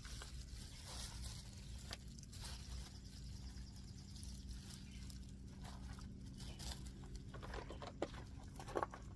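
A few faint clicks and light handling knocks of cooking gear, as bread is readied for toasting in a pan, over a steady low hum.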